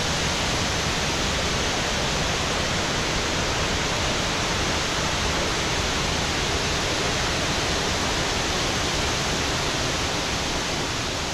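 Panther Creek Falls, a waterfall, pouring with a steady, unbroken rush of water.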